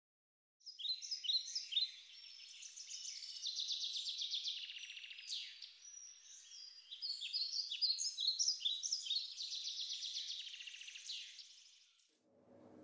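Birdsong: quick chirps and trills, many overlapping, starting about half a second in and fading out shortly before the end.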